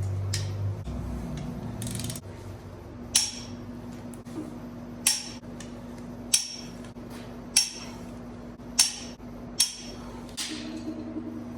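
Sharp single clicks from a click-type torque wrench, about one every second or so, as the cylinder-head bolts reach torque. A steady low hum runs underneath.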